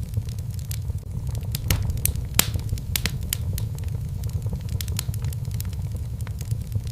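Wood fire in a fireplace crackling: irregular sharp pops over a steady low rumble, the loudest pop about two and a half seconds in.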